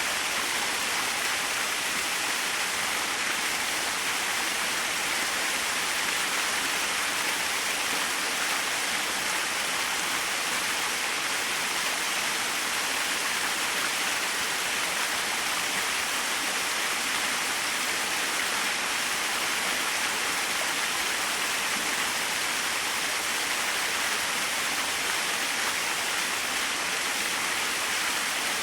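Small waterfall splashing steadily, an even rush of falling water.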